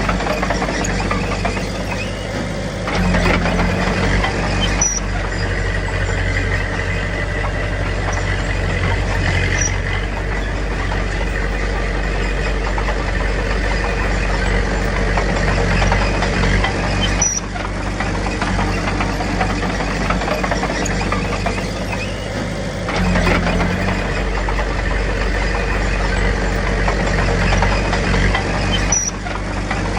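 Small crawler bulldozer's diesel engine running steadily, working harder about three seconds in and again about two-thirds through, easing in between, with a few faint short squeaks.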